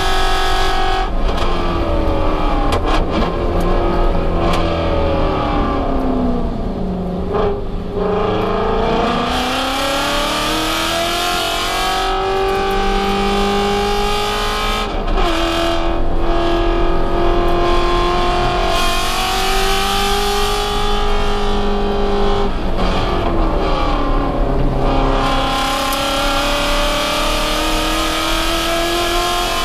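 Ford Shelby GT350's 5.2-litre flat-plane-crank V8 heard from inside the cabin while lapping a race track. The engine pitch falls for the first several seconds as the car slows, then climbs under full throttle. It drops suddenly at a gear change about halfway, falls again for a corner and climbs once more near the end.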